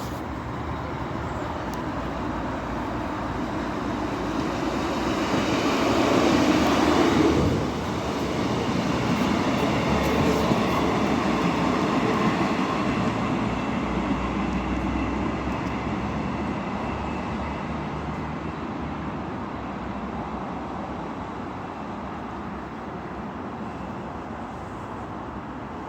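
Train passing: a steady rumble that builds to its loudest about seven seconds in, then slowly fades as it moves away.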